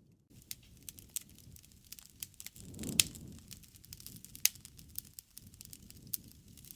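Wood fire crackling, with irregular sharp pops over a low rush of burning. The loudest pop comes about three seconds in, on a brief swell of the rushing sound.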